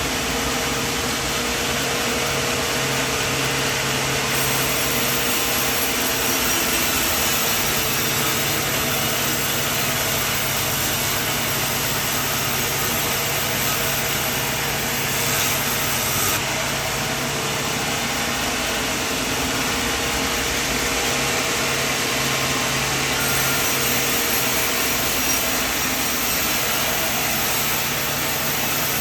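Portable sawmill running steadily as it cuts wood: a continuous engine and blade noise whose engine note shifts slightly a few times.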